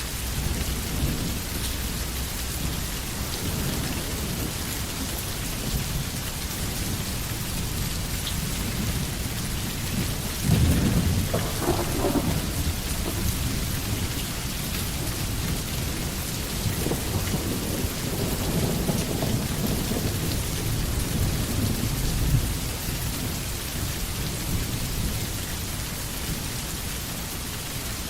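Steady rain falling, with rolling thunder: a louder low rumble about ten seconds in and a softer, longer one a few seconds later.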